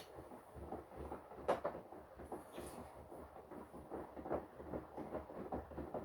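Washing machine drum turning with laundry tumbling inside, a dense run of irregular soft knocks and swishes over a low rumble, stopping abruptly right at the end as the drum pauses.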